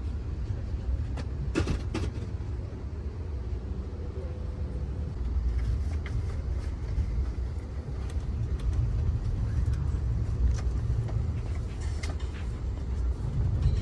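Steady low rumble of a moving passenger train heard from inside the car, with a few sharp clicks and knocks.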